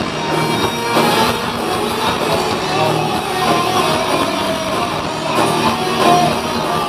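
Heavy metal band playing live, distorted guitars and drums loud and continuous, as picked up by a handheld camera's microphone in the audience.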